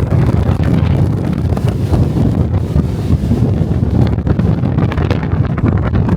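Strong wind buffeting the built-in microphone of a DJI Osmo Pocket 3: a loud, dense low rumble that surges and dips in gusts without pause.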